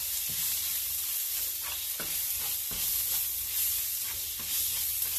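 Shallots, ginger, garlic and green chillies frying with ground spices in a stainless steel wok, sizzling steadily while a spatula stirs and scrapes them around the pan.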